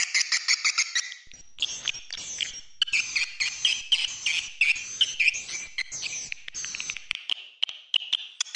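Recorded swiftlet calls played as a lure sound for swiftlet farming: rapid, dense twittering chirps and clicks, with a brief drop about a second in. The track is mixed in '8D' stereo so the calls seem to circle the listener, meant to draw swiftlets step by step into the nesting house.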